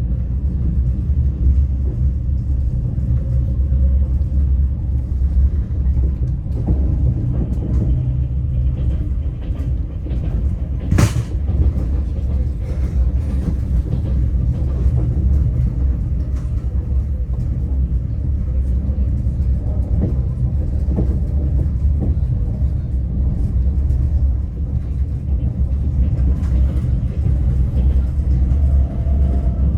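Passenger train running, heard from inside the carriage: a steady low rumble from the wheels and running gear, with one sharp click about a third of the way in.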